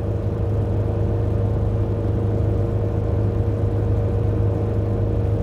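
Zenith 601's Corvair air-cooled flat-six engine and propeller droning steadily in cruise flight, heard in the cabin as a muffled low drone with a steady hum.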